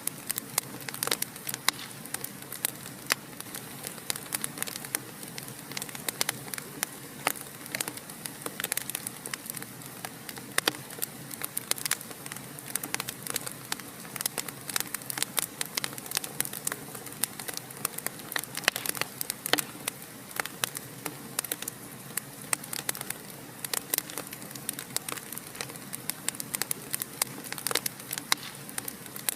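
Fireplace fire crackling: a steady soft hiss with frequent, irregular sharp pops and snaps.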